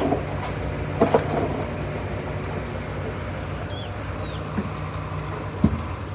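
Heavy diesel earthmoving machine's engine running steadily, with a few sharp knocks of rock or metal: one at the start, one about a second in, and one near the end.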